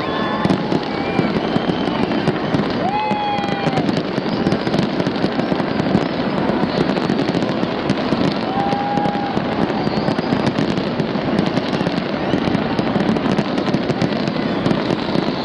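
Fireworks display going off in a dense, continuous crackle of many small bangs, steady in loudness.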